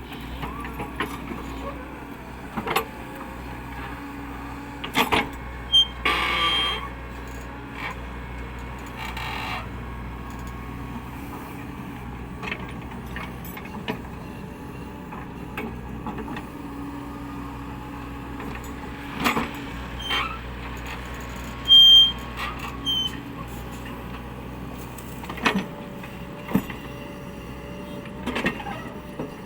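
Caterpillar 307E2 mini excavator's diesel engine running steadily under a low hum, with scattered metallic clanks and knocks from the machine at work, a short hiss, and a few brief high-pitched squeaks.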